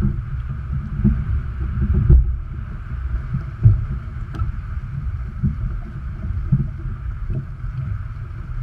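Wind buffeting the microphone aboard a sailboat under way, in uneven low gusts, over a steady rush of water along the hull.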